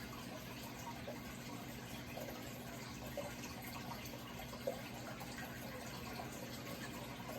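Running water trickling steadily, with small bubbling or dripping blips scattered through it over a steady low hum.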